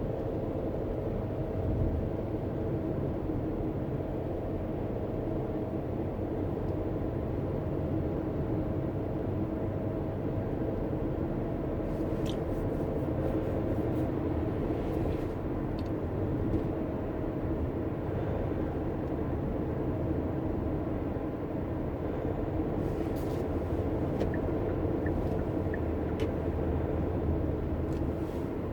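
Steady road and engine noise heard inside a moving car, a low rumble, with a few faint clicks in the second half.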